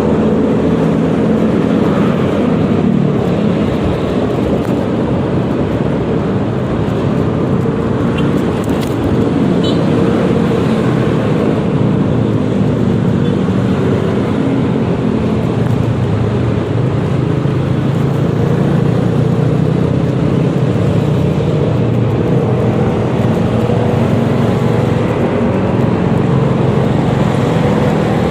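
Yamaha XMAX 300 scooter being ridden in traffic: its engine runs with the pitch slowly rising and falling as speed changes, under steady road and wind noise.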